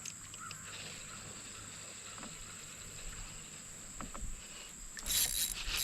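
Insects calling with a steady high-pitched trill, with a few small clicks; about five seconds in, a splash of water begins.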